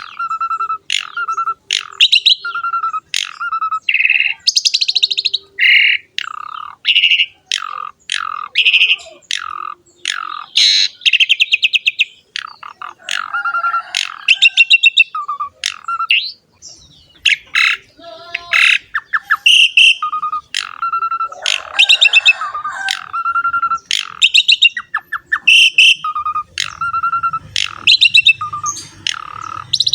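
Javan pied starling (jalak suren) in full, continuous song: a rapid run of short whistled notes, chattering trills and buzzy rattles, with one lower clear whistle recurring about once a second.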